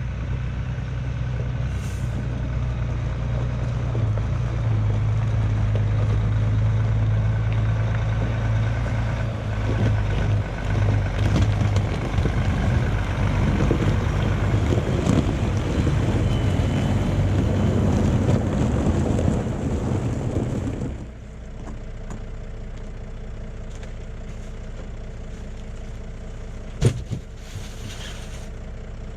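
Truck engine running, heard from inside the cab, with a steady low hum that drops to a quieter idle about two-thirds of the way through. Near the end there is a single sharp click, then a short hiss.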